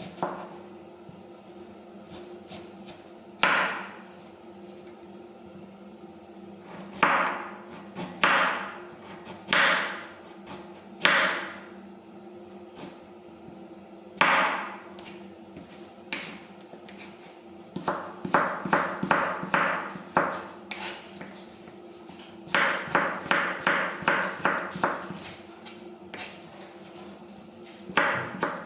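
Sharp knocks of kitchen utensils, each with a brief ringing tail: single strikes spaced a second or more apart, then two quick runs of about four to five knocks a second in the second half, over a steady low hum.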